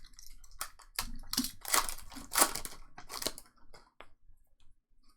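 Trading-card pack wrappers being torn open and crinkled by hand: a run of sharp crackles over the first three and a half seconds, then a few faint ticks.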